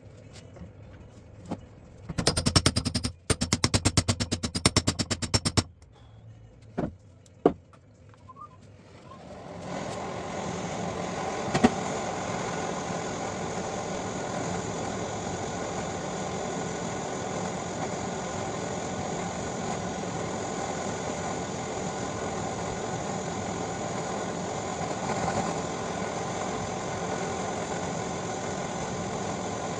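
A loud burst of rapid mechanical hammering of the kind an air tool makes on rusted vice parts, lasting about three seconds with a brief break, followed by a few single knocks. From about ten seconds in, a power-tool motor runs steadily to the end.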